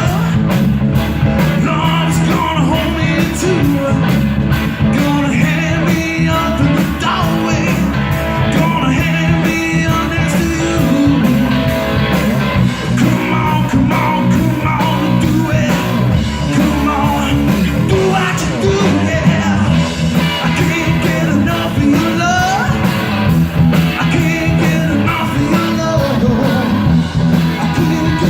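Rock music with electric guitar, bass and drums, the guitar a 1960 Gibson Les Paul Standard played along with the song.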